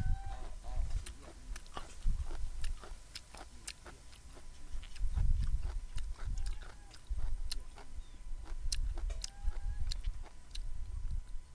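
Close-miked chewing of crunchy raw vegetables, with many crisp crunching clicks. Faint goose honks sound in the background three times.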